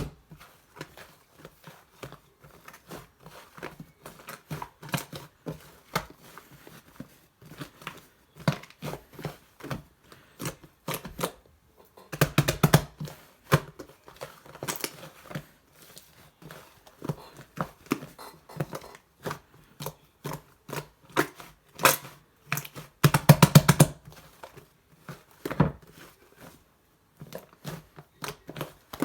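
A large, runny slime being squeezed and poked by hand, making a string of short sticky clicks and pops, with louder squelching stretches about twelve and twenty-three seconds in.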